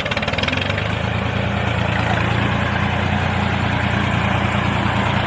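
Tractor-like engine idling steadily, a low even chugging with no change in pace.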